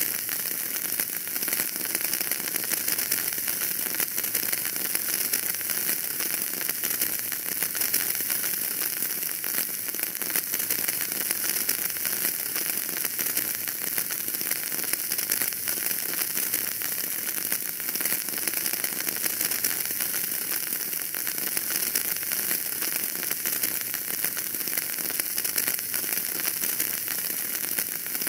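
Wood fire crackling steadily in a fireplace: a dense, even run of small pops and snaps over a hiss.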